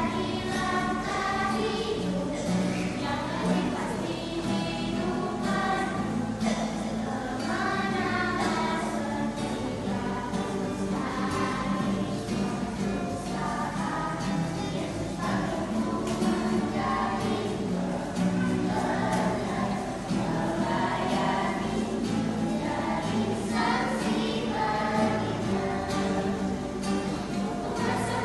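Children's choir singing a Christian song in Indonesian.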